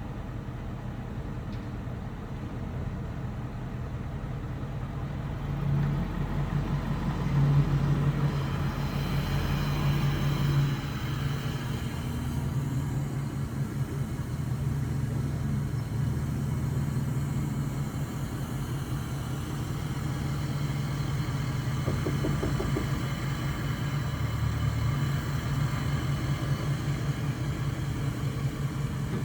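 Diesel engine through a 5-inch straight-pipe exhaust, running with a steady low rumble; it grows louder for a few seconds about six seconds in, then settles back to a steady run.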